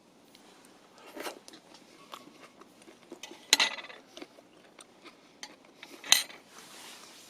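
Camp cookware and utensils being handled: scattered small clinks and three sharper knocks, about a second in, midway and near the end.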